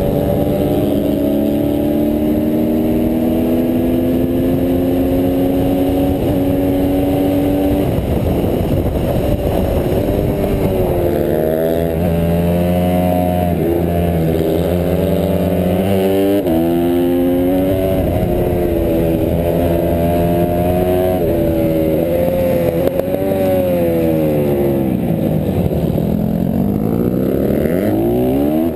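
Honda CRF150R pit bike's single-cylinder four-stroke engine at race pace. For the first several seconds it holds one long pull with the pitch slowly climbing. From about eleven seconds in the revs rise and drop again and again through shifts and corners.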